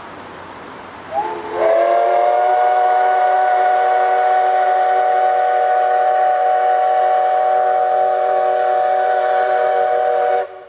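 Steam whistle of steam locomotive C11 123 blowing one long blast of about nine seconds, opened by a brief rising toot. It sounds several pitches at once, holds steady, and cuts off sharply.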